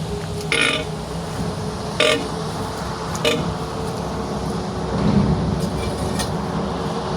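Tyre-changing work on a truck wheel: three sharp knocks about a second and a half apart over a steady low machine hum.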